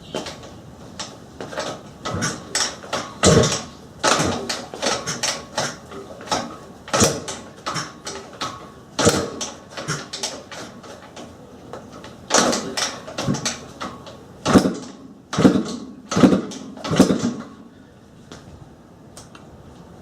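A 1980 Husqvarna CR390 two-stroke single being kicked over again and again: irregular clusters of kickstart clunks and the engine turning over without catching, with the choke left on.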